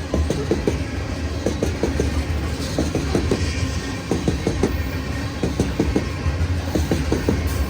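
A train's cars rolling past, their wheels clicking rapidly over the rail joints above a steady low rumble.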